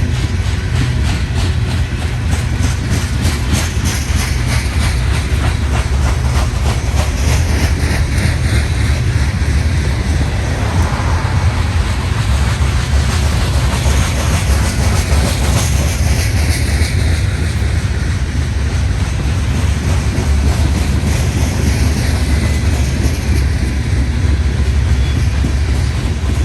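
CSX coal train's cars rolling past: a steady, loud rumble with rapid clicking of the wheels, densest in the first half.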